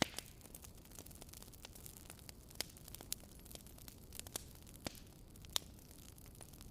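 Wood fire crackling in a fireplace: many small irregular crackles over a soft steady hiss, with a few louder sharp snaps among them.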